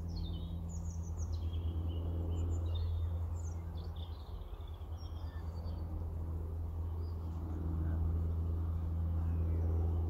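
Birds chirping and twittering in quick high phrases, mostly in the first few seconds, over a steady low hum.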